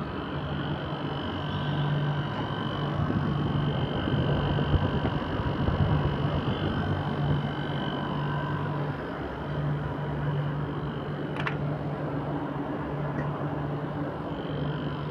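Mitsubishi Heavy Industries air conditioner with its compressor and fan running: a steady low hum over a whooshing noise, with one sharp click about eleven seconds in.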